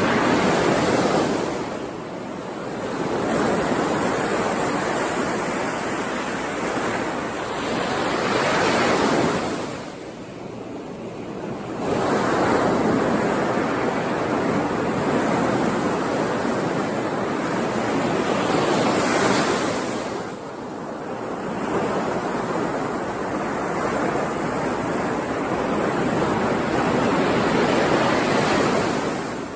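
Ocean waves breaking and washing on a shore: a steady rush of surf that swells and eases in long surges, dropping into a lull about every nine seconds.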